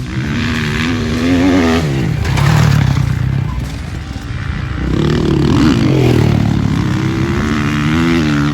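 Motocross dirt bike engine revving up and backing off several times: pitch climbs for the first second or so, drops about two seconds in, then rises again around five seconds and once more near the end.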